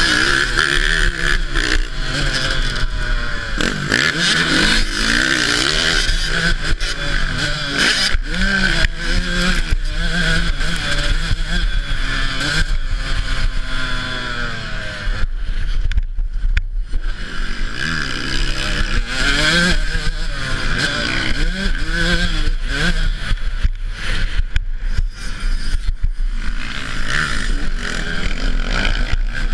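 Dirt bike engine ridden hard, revving up and down again and again through throttle and gear changes, with knocks and rattles from the bike over rough ground. The engine briefly falls away about halfway through, then picks up again.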